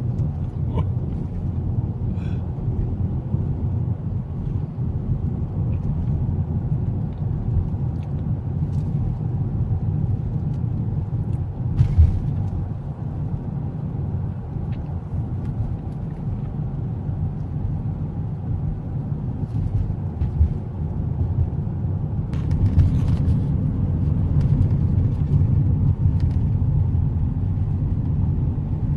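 Steady low road and engine rumble of a moving car, heard from inside the cabin, with a single sharp knock about twelve seconds in and a brief rattle a little past the middle.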